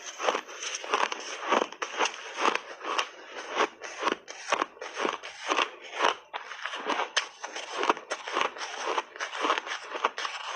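Close-miked crunching of frozen shaved ice being bitten and chewed: a dense, irregular run of sharp crunches, several a second, without a break.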